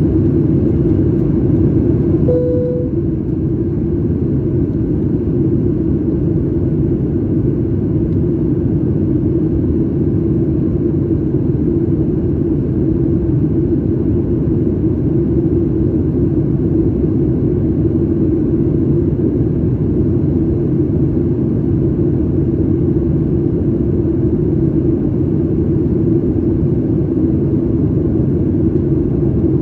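Steady cabin noise of a Boeing 737 MAX 8 in flight: the CFM LEAP-1B engines and airflow make a constant low rumble. A brief single tone sounds about two seconds in.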